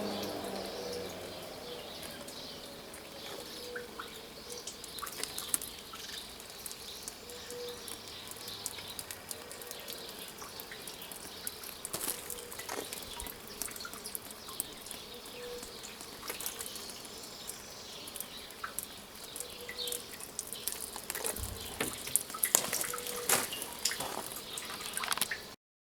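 Water dripping and splashing in small irregular drops, a little denser near the end, as freshly watered small potted bonsai trees drain.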